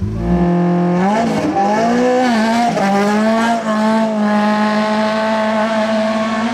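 Rally car engine at high revs: the pitch climbs about a second in, dips and rises several times as the car works through the stage, then holds high and nearly steady.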